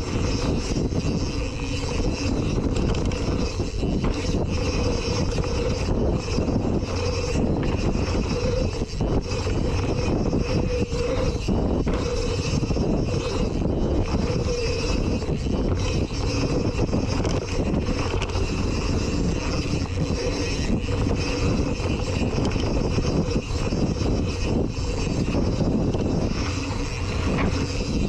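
Steady riding noise of a mountain bike descending a trail, recorded on an action camera: low tyre and trail rumble with wind rushing over the microphone, unbroken throughout.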